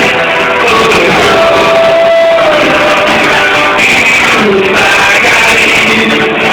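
Live worship song: singing over a band, loud and continuous, with a long held note about a second in.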